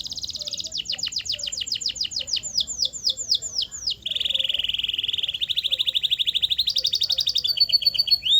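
Male canary singing a rolling song of trills and tours. It opens with a very fast high trill, then a run of separate notes sweeping downward, then from about halfway a rapid, lower, steady trill that switches to a higher trill near the end.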